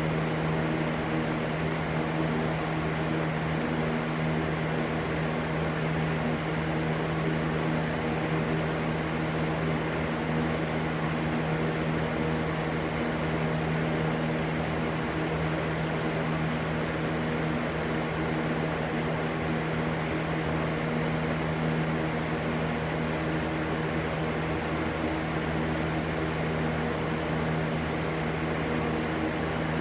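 Electric fan running steadily: an even rushing noise over a constant low motor hum.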